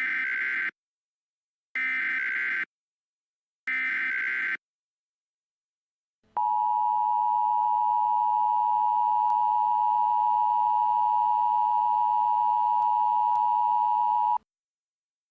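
Emergency Alert System alert opening: three short, buzzy bursts of SAME digital header data, each under a second and about two seconds apart. After a short pause comes a steady, unbroken attention tone of about eight seconds that cuts off abruptly.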